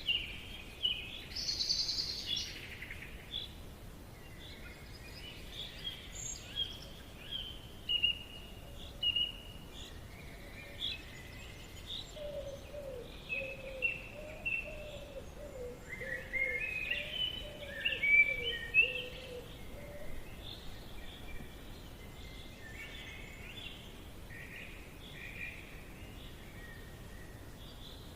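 Forest birds chirping and singing: many short, high notes from several birds, with a run of lower-pitched calls repeating through the middle stretch.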